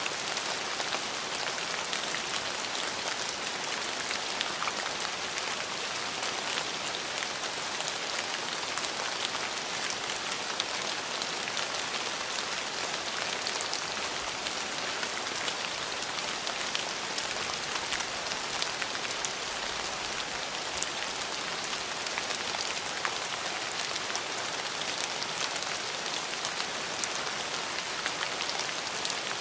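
Steady rain falling on hard surfaces, an even hiss with many small drop ticks throughout.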